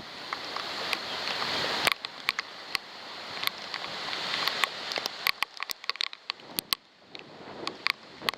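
Wind-driven rain in a thunderstorm: gusts rise and fall as a rushing hiss while raindrops tick sharply on a waterproof camera. The gusts ease after about five seconds, leaving scattered drop hits.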